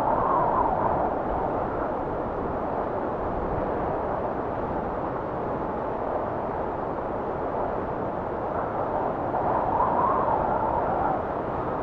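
Strong blizzard wind blowing steadily, with a howling gust near the start and another about ten seconds in.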